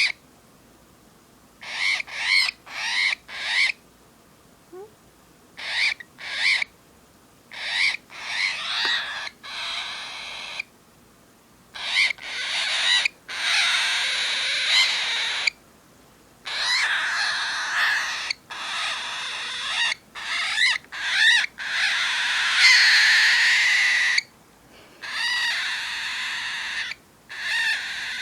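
Cockatiel growling: a run of short raspy bursts, then longer drawn-out growls of several seconds each in the second half, with brief pauses between. This is the bird's defensive threat sound.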